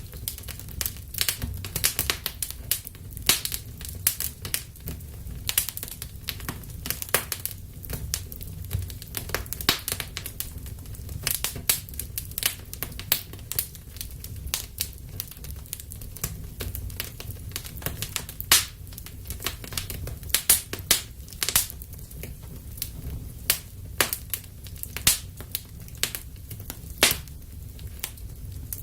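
Wood fire burning in a fireplace, crackling with frequent irregular sharp pops and snaps over a low steady rumble of the flames.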